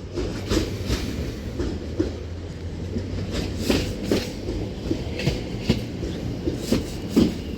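Doubled-up Class 730 electric multiple unit running into the station: a steady low rumble with irregular clacks from the wheels over the rails, the loudest near the end.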